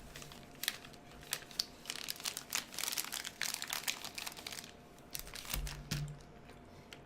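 Plastic snack wrapper crinkling as it is handled, a quick run of crackles that thins out after about five seconds.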